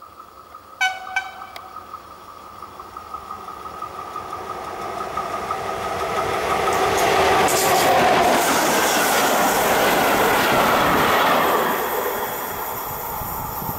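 FS E656 electric locomotive and its vintage carriages passing through a station without stopping: a few short horn toots about a second in, then the rumble and clatter of wheels over the rail joints swells as the train approaches, peaks as it rushes past and drops off near the end.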